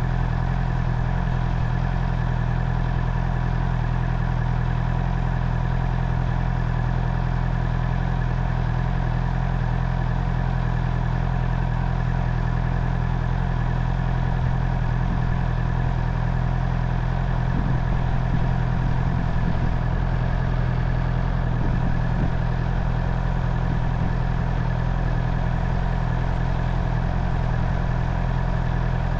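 Honda CB650R inline-four engine running at steady, unchanging revs.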